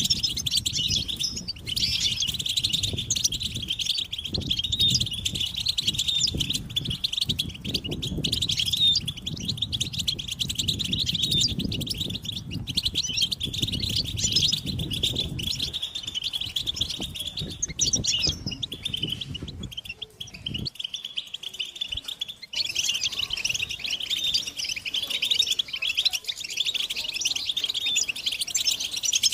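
A group of European goldfinches twittering and calling without pause, a dense run of high, rapid chirps. A low rumble underneath stops about twenty seconds in; after a brief dip the twittering carries on alone.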